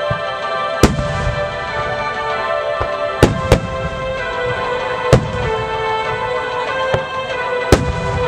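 Large aerial firework shells bursting: five sharp bangs, two in quick succession about three seconds in, over sustained music.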